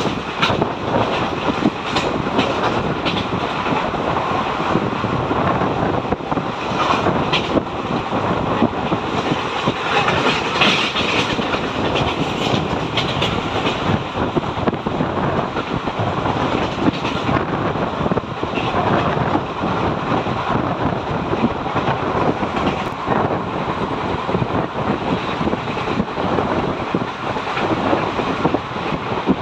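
Passenger coaches of an express train running at speed, heard from the open doorway: a steady rumble of wheels on the rails with scattered clicks and clatter over the rail joints, and the rush of passing air.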